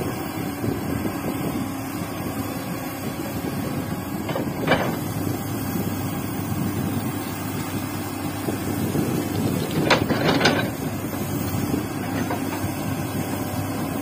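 Hydraulic excavator's diesel engine running steadily, with short sharp sounds from the machine working about four and a half seconds in and twice in quick succession around ten seconds in.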